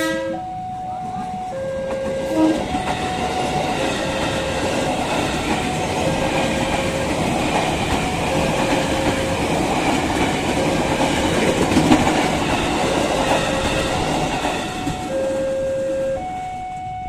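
KRL electric commuter train passing close by, its wheels rumbling and clattering over the rails as the cars go past, then dying away near the end. The level crossing's warning alarm sounds throughout as two alternating tones.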